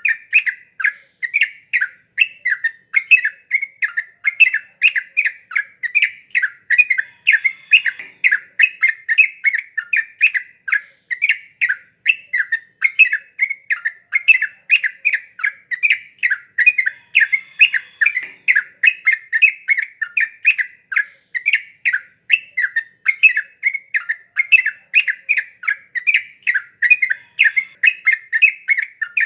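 Yellow-vented bulbul (trucukan) singing vigorously, a fast, unbroken run of short bubbly notes at about three a second.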